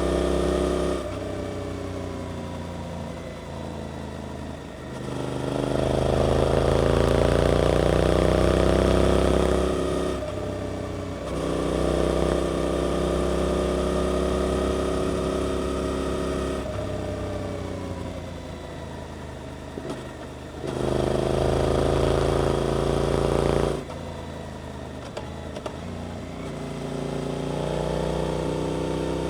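Suzuki GSX-8S parallel-twin engine through an aftermarket Arrow exhaust, accelerating hard several times with its pitch rising, then dropping off as the throttle is closed, repeatedly. It is loudest in two long pulls, one several seconds in and one near the end.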